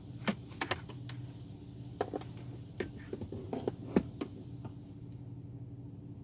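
Steady low hum heard from inside a car in an automatic car wash, with a scatter of sharp irregular clicks and taps during the first four seconds.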